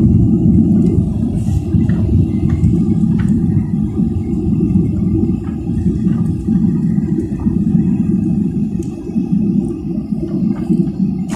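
Airliner cabin noise: the steady low rumble of the engines and airflow, with a few faint clicks.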